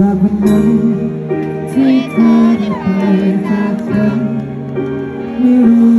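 Live band playing the intro of a pop-rock ballad, with sustained chords and a wavering melodic line about two seconds in.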